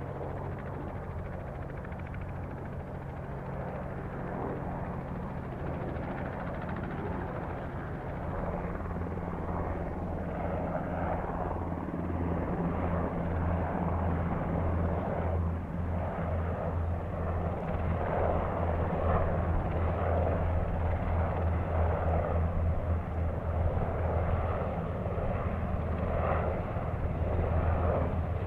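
Sikorsky UH-60 Black Hawk helicopter with twin turbine engines and a four-bladed rotor, running with a steady low rotor throb and turbine noise that grows gradually louder.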